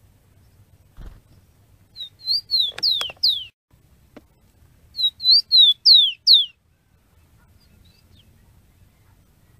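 A small songbird singing two short phrases a second or so apart, each of about six high, slurred whistles that fall in pitch. There is a soft thump about a second in.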